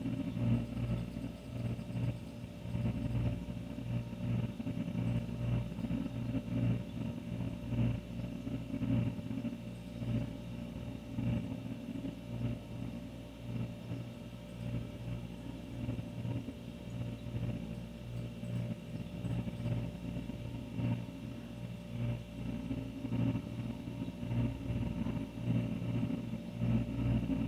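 An older refrigerator running with a steady low hum.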